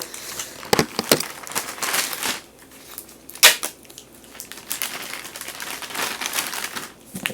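Plastic cheese-stick wrappers crinkling and tearing as individual string cheese sticks are pulled apart from their pack, in irregular crackling bursts with a sharp snap about three and a half seconds in.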